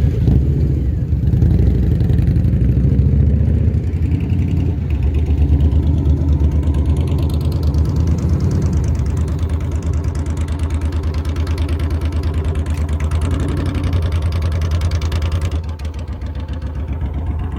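Heavy motorcycle engine running at low revs, close to idle, during a slow full-lock U-turn, with little throttle applied.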